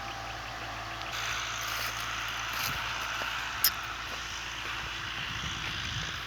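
Farm machinery engine running steadily with a noisy rush and a low hum, and one sharp click a little past halfway.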